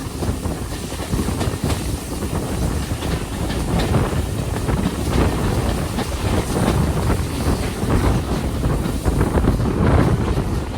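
Train running along the track, a continuous rumble with faint clicks from the wheels, and wind buffeting the microphone.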